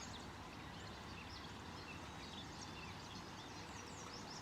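Several wild birds chirping and calling, many short high chirps overlapping, over a steady low rush from a nearby creek.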